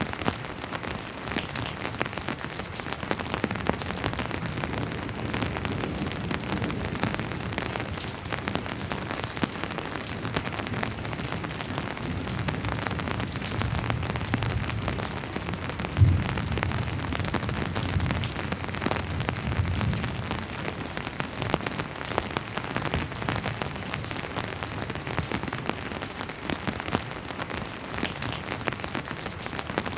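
Steady rain falling, a dense hiss of many individual drops ticking on surfaces. Through the middle a low rumble swells, with one sudden low thud about halfway through, the loudest moment.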